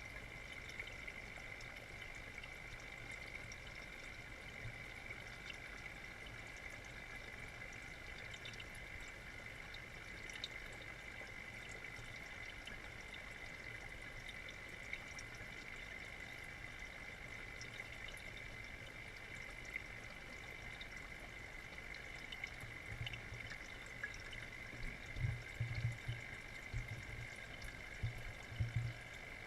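Water steadily pouring and trickling into an aquaponics fish tank, with a few low thumps near the end.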